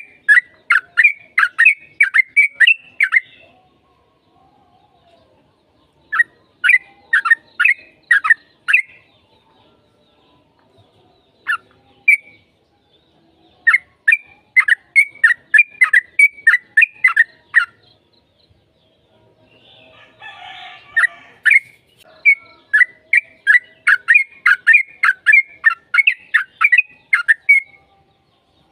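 Yellow-vented bulbul singing loud, rapid chattering phrases of about a dozen quick sharp notes each, each phrase lasting around three seconds, repeated four times with pauses between.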